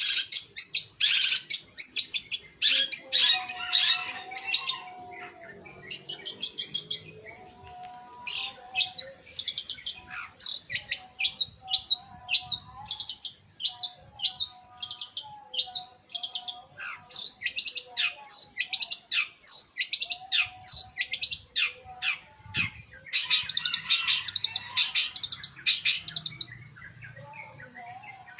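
Long-tailed shrike (pentet) in full song: a long, rapid run of high chattering and whistled notes, with dense bursts of chatter at the start and again near the end.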